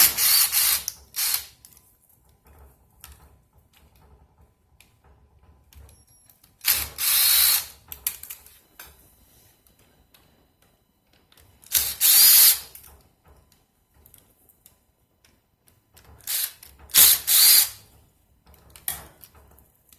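Power drill-driver running in four short bursts a few seconds apart, backing small Phillips-head screws out of a Nissan Leaf battery module.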